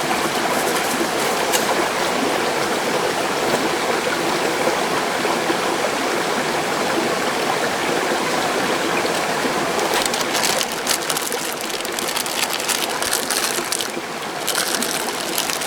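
Mountain stream rushing steadily. From about ten seconds in, a run of small sharp clicks and crackles over it.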